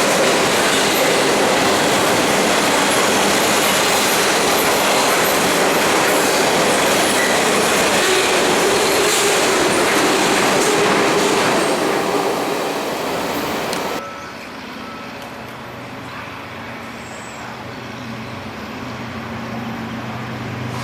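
Freight train rolling past at speed: a loud, steady rush of steel wheels on rail that fades away about twelve seconds in. It then gives way abruptly to a quieter low, steady hum.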